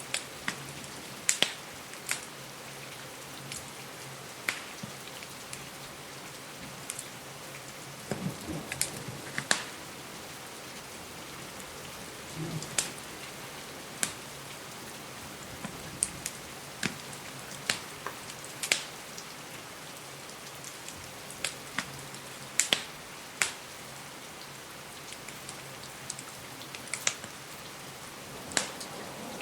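Steady rain hiss with the irregular sharp pops and crackles of a wood fire in a fireplace.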